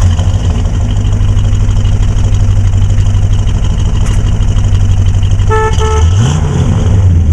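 1971 Oldsmobile Cutlass's 350 Rocket V8 running with a steady, pulsing low exhaust drone while the car is driven. Two quick horn toots come about five and a half seconds in, followed by a brief rise and fall in engine pitch.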